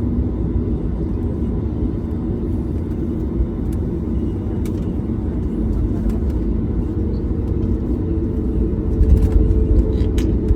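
Steady low rumble in the cabin of a Boeing 737 MAX 8 on the ground before takeoff, with its CFM LEAP-1B engines running. A faint steady hum steps up to a higher pitch about seven seconds in, and there are a few light clicks near the end.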